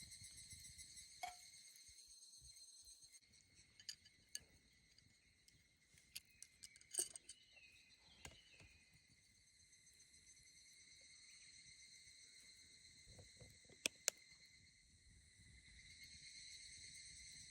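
Insects trilling in a steady, faint high-pitched night chorus, with a few small clicks and two sharp ticks close together about fourteen seconds in.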